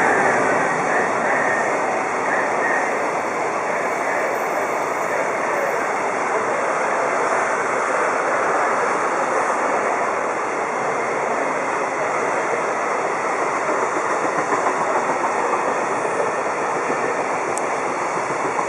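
Freight train's container wagons rolling past on steel rails: a steady, unbroken rumble of wheels on track.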